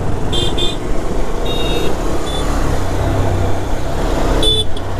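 Motorcycle riding on the road, a steady low rumble of engine and road noise. Several short high-pitched beeps come through: two near the start, one around the middle and one near the end.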